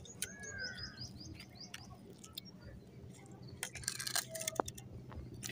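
A bird chirps faintly several times in quick succession in the first second or so. About four seconds in comes a cluster of light clicks as a steel spoon taps and scrapes against the crisp puri shells it is filling with mashed potato.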